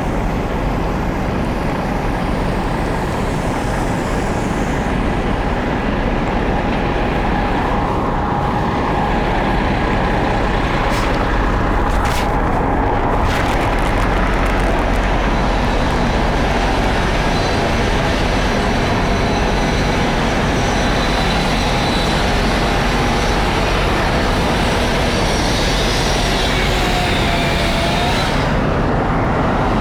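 Large vehicle engine running steadily, under a constant rush of wind and rain noise.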